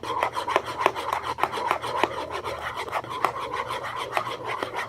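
A utensil scraping around a bowl in quick, repeated strokes, stirring dish soap and salt together for slime.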